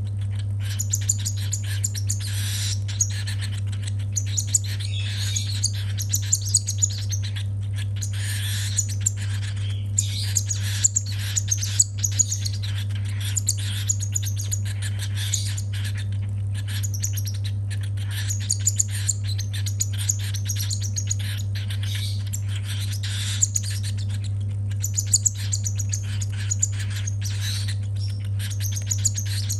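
Baby cockatiel's begging calls: rapid, repeated high chirps in bursts with short pauses, the hungry chick's call for food during hand-feeding. A steady low hum runs underneath.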